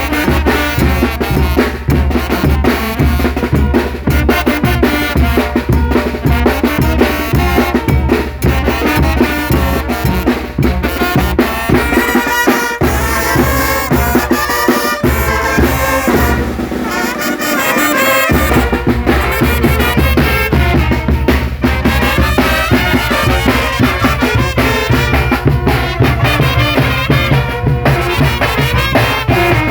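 Mexican brass band (banda) playing, with trumpets, trombones and drums over a steady, driving beat. The low bass and drum drop out for a moment about two-thirds of the way through, then come back in.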